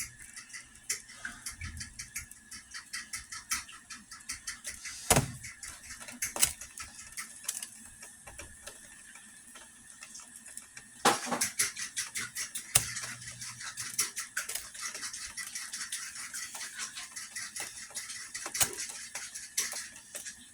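Teapot making weird sounds: a run of irregular clicks and rattles, thickest about eleven to thirteen seconds in, with a sharper knock about five seconds in, over a faint steady high tone.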